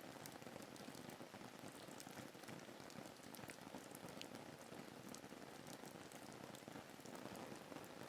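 Faint, steady rain falling, with scattered small drop ticks.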